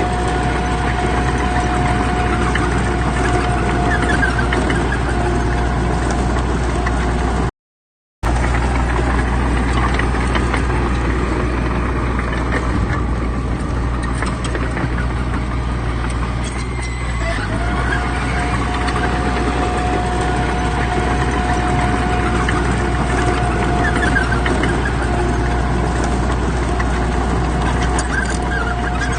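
Heavy earthmoving machinery's diesel engine running steadily, a deep hum with a steady whine on top. The sound cuts out for under a second about eight seconds in.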